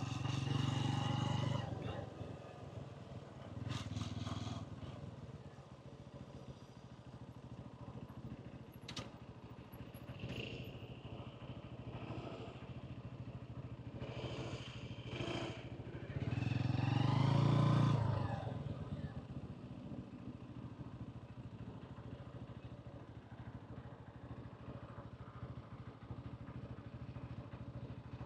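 Hansom Bike Venet 125cc motorcycle's engine and exhaust while riding, with two louder swells, one at the start and one about 17 seconds in, and quieter steady running between.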